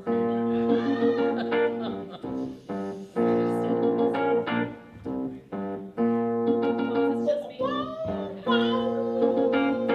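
Electric keyboard playing the intro of a disco-style song: chords held about a second each, with short breaks between them.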